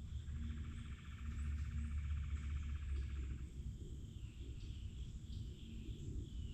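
Forest ambience: small birds chirping, with a fast, evenly pulsed trill that starts just after the beginning and stops about halfway through, over a steady low rumble.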